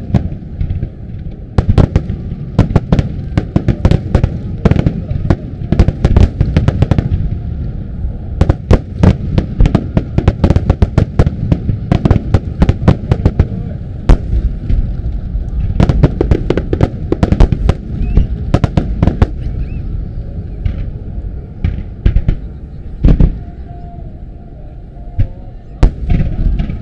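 Starmine firework barrage: dozens of aerial shells bursting in rapid volleys of sharp bangs over a constant low rumble and crackle. The volleys thin out after about twenty seconds into a few single heavy booms.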